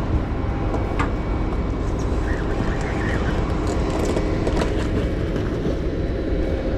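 Steady low rumble of a boat's engine running, with a few faint clicks and knocks.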